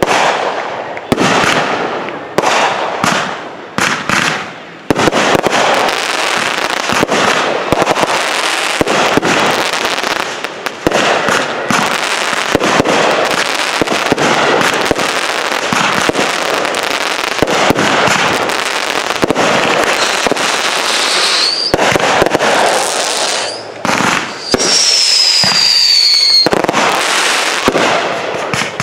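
Consumer aerial fireworks going off: a quick string of separate bangs, then from about five seconds in a dense, continuous barrage of bangs and crackling. Near the end a whistle rises briefly, and then another falls in pitch over a second or so.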